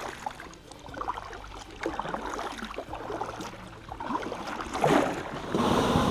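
Kayak paddle strokes in water: a run of splashing strokes, roughly one a second.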